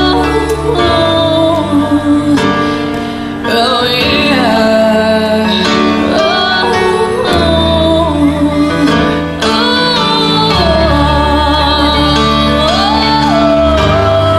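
A female solo voice singing a ballad with long held, wavering notes over steady instrumental accompaniment.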